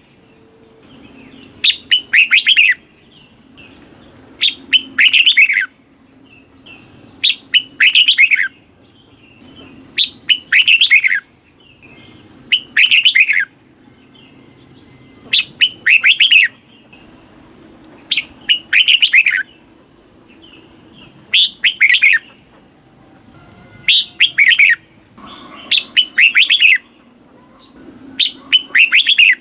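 Red-whiskered bulbul singing short phrases of quick, falling notes, one phrase about every two and a half to three seconds.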